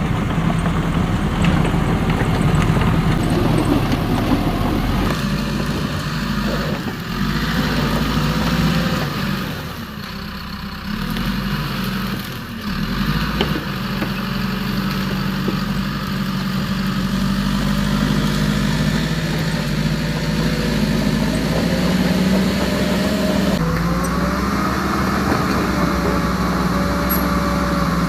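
Radio-controlled toy excavator working: a steady engine-like hum with electric motors whining, the whine rising and falling in pitch as the arm and bucket move. The sound drops briefly in the middle.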